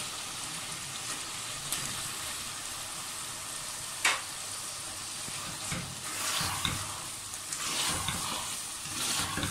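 Boneless chicken pieces sizzling in hot oil and onion-tomato masala in a pressure cooker, with one sharp knock about four seconds in. From about the middle on, a nylon spatula scrapes and stirs through the pot.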